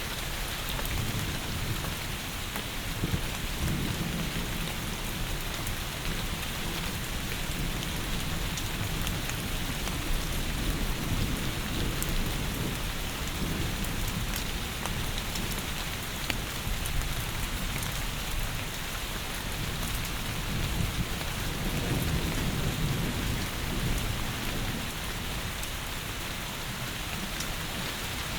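Heavy rain falling steadily, an even hiss, with deep low rumbles of thunder swelling twice, about four seconds in and again past twenty seconds.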